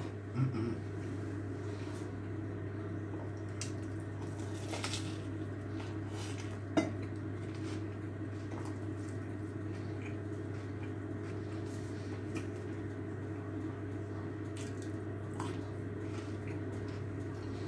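Quiet chewing of crunchy cheesy garlic bread, with a few faint crunches and clicks, the sharpest about seven seconds in, over a steady low hum.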